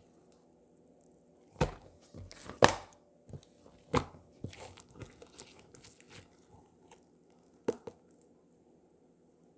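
Slime being squeezed and stretched by hand, making scattered sharp pops and crackles, most of them bunched between about one and a half and four and a half seconds in, with one more near the end.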